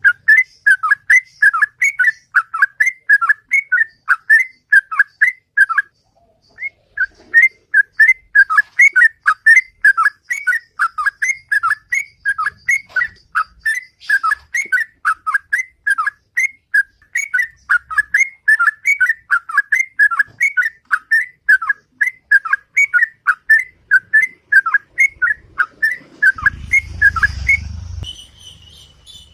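Yellow-vented bulbul (trucukan) singing its 'ropel' song: a fast, regular string of short, loud whistled notes, about three a second, broken once by a short pause. A low rumble sounds for about a second and a half near the end.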